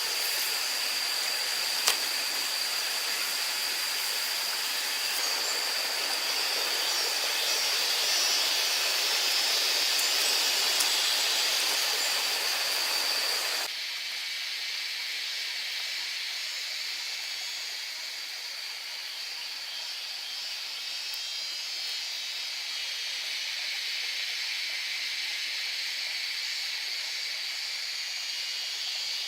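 Steady hissing rush of water with a thin high whistle running through it. The sound thins out and drops in level abruptly about fourteen seconds in.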